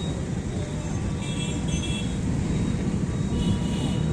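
Many motorcycle engines running together in a dense pack of bikes, a steady low mix of engine noise.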